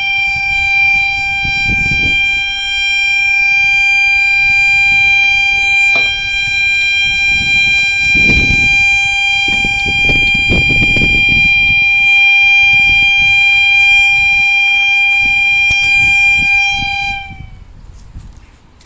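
Broken level-crossing yodalarm sounding one continuous steady tone instead of its normal warbling yodel, over the low rumble of a passing train. The tone cuts off about 17 seconds in, sagging slightly in pitch as it stops.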